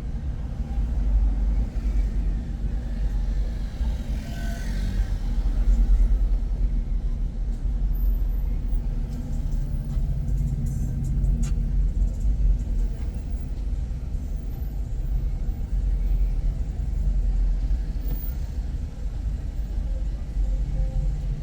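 Car driving along, a steady low rumble of engine and road noise, with a brief swell of tyre hiss about four to five seconds in.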